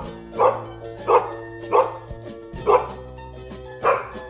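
A dog barking repeatedly, about six barks, over background music.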